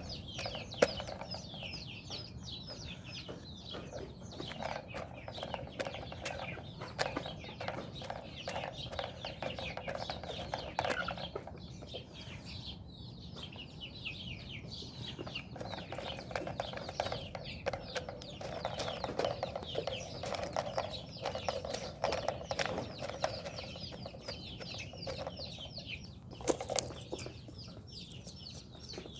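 Chickens clucking, with many short high chirps throughout and scattered clicks. There is a sharp knock just under a second in and another loud crack near the end.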